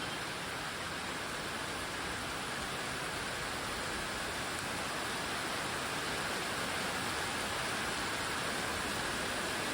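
Heavy rain pouring down steadily, a dense even hiss of rainfall.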